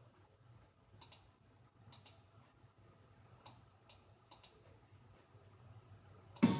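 About eight sharp clicks of a computer mouse, several in quick pairs like double-clicks. Just before the end a self-made music track starts playing loudly.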